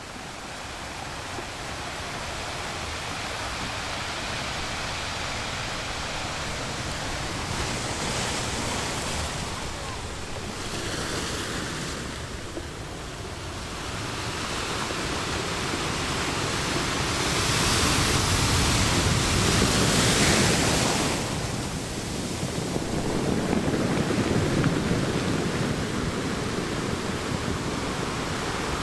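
Small waves breaking and washing up on a beach, the surf swelling and ebbing several times. The loudest surge comes about two-thirds of the way through.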